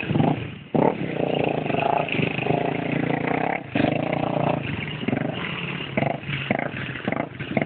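Small motorbike engine running and revving, its pitch dipping and rising, with short breaks in the sound near the start and about three and a half seconds in.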